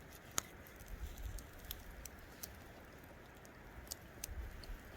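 Campfire crackling faintly, with scattered sharp pops and clicks over a low rumble.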